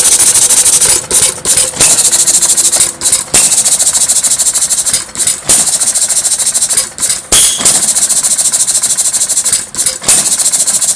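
Old one-horsepower Woodpecker stationary engine running at a loud, rapid beat with a strong hiss, the beat dropping out briefly every second or two.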